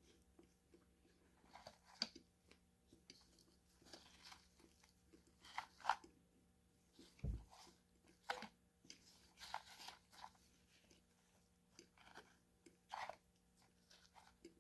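Close-miked crunchy food being bitten and chewed, in irregular sharp crunches. A short low thump comes about seven seconds in.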